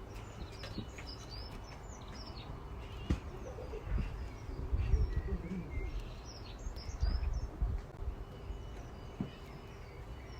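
Small birds chirping and twittering over a rough low rumble that swells to its loudest about halfway through.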